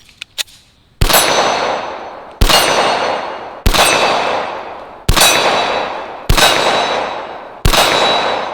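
Six shots from a Smith & Wesson 1911 E-Series .45 ACP pistol, about one every 1.3 seconds. Each shot is followed by the ringing of the hit steel gong target, fading until the next shot. A few light clicks come just before the first shot.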